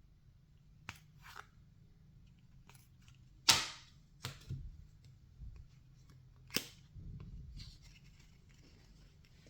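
Trading cards being handled and flipped through: scattered soft clicks and slides, with one sharp snap about three and a half seconds in and another about six and a half seconds in.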